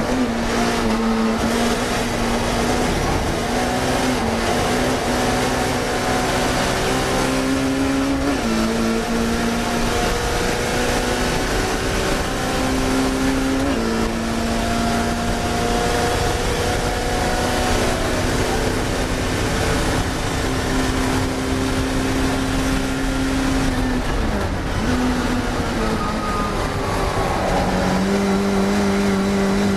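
Race car engine running hard throughout, its pitch climbing slowly through each gear and dropping suddenly at the changes, about 8 s in, about 14 s in, and again near 24 s and 28 s.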